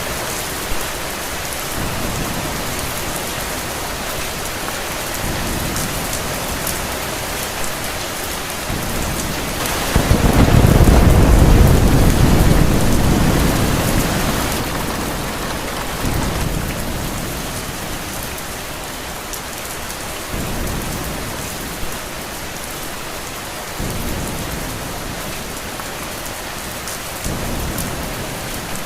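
Steady rain with a roll of thunder about ten seconds in, which comes in suddenly, rumbles for a few seconds and fades away.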